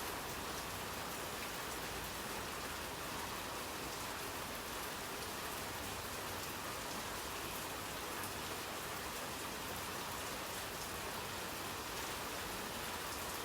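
Steady hiss and patter of falling water drops on a surface, with faint scattered taps; it starts abruptly and cuts off suddenly near the end.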